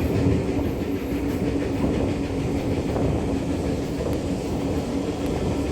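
A steam-hauled heritage train running steadily, heard from aboard a carriage: a continuous rumble of wheels on rail with a light clickety-clack and a faint steady hum, behind GWR Manor-class 4-6-0 No. 7828 Odney Manor.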